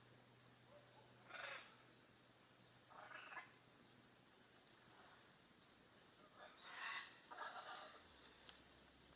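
Faint bird calls, a few short scattered calls and chirps, over a steady high-pitched insect-like drone.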